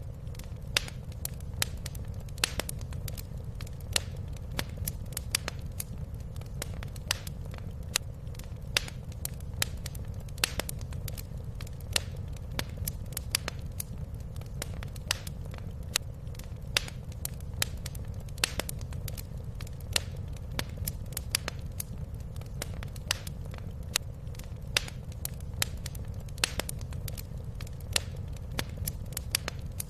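Wood fire crackling in a fireplace: irregular sharp pops and snaps, one to three a second, over a steady low rumble.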